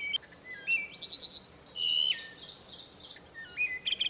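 Songbirds singing: a run of clear whistled notes that hold a pitch briefly and then jump up or down, with quick high trills in between.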